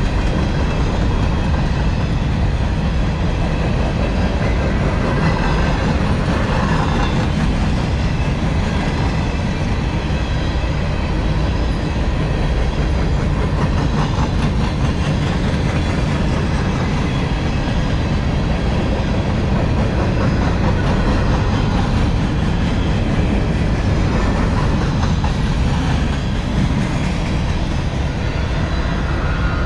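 Empty coal hopper cars of a long unit freight train rolling past: a steady low rumble of steel wheels on rail with clatter over the track.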